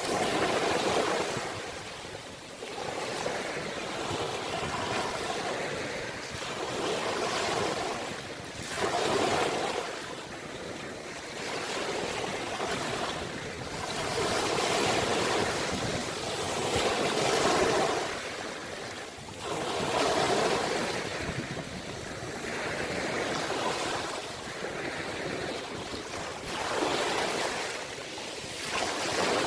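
Ocean waves breaking and washing up onto the shore, the surf noise swelling and ebbing every few seconds.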